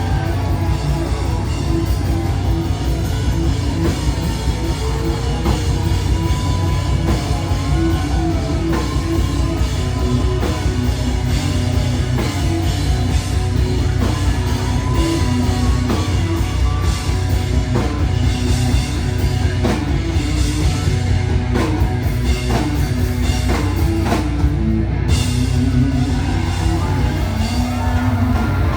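Rock band playing live and loud, with a drum kit keeping a steady beat under electric guitars and bass.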